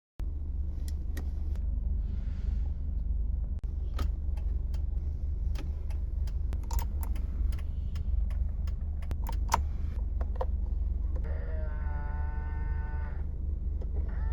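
Subaru Sambar Dias van's rear-mounted 660 cc four-cylinder engine running, a steady low drone with scattered light clicks and knocks. Near the end a held tone with several pitches sounds for about two seconds.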